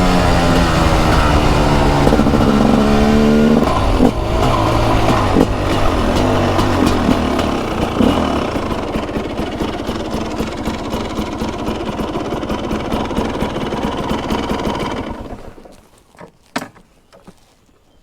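TM SMR 300 two-stroke single-cylinder supermoto engine dropping in revs as the bike slows, then running low under wind and road noise that slowly fades. The engine sound cuts off about 15 seconds in as the bike stops, and a few clicks follow.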